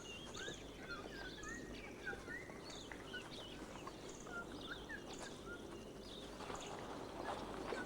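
Forest ambience: many short bird chirps and whistles, scattered and overlapping, over a steady background hiss.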